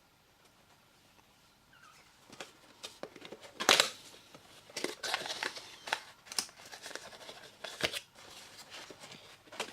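A small cardboard retail box being opened and its packaging handled: after a quiet start, a run of clicks, rustles and crinkles begins about two seconds in, with the loudest sharp snaps a little before four seconds and again near eight seconds.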